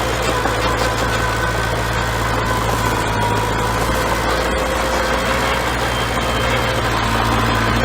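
Bulldozer's diesel engine running steadily under a low hum, with a thin steady whine above it.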